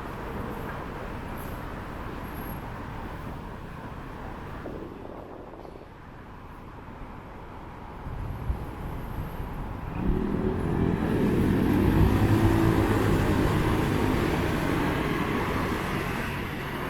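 City road traffic. About halfway through, a motor vehicle's engine passes close, swelling to its loudest about two-thirds of the way in and then fading.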